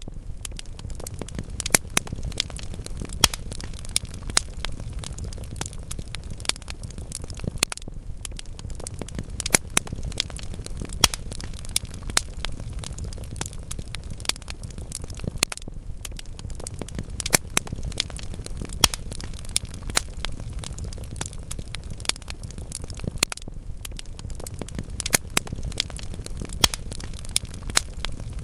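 Wood fire burning in a fireplace: a steady low rumble of flames with frequent sharp crackles and pops from the burning logs, coming irregularly throughout.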